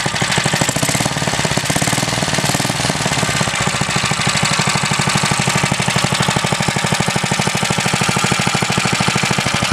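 Small vintage Villiers single-cylinder stationary engine of about 1.5 hp running at a steady, fast firing rhythm. A light ticking runs through it, which the owner puts down to the non-original pull starter grabbing now and then.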